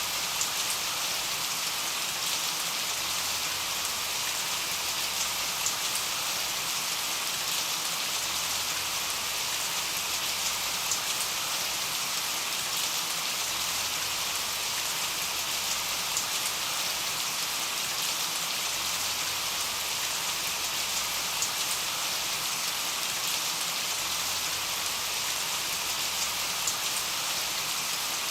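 Steady rain falling on a window and surfaces, an even hiss with scattered individual drop ticks.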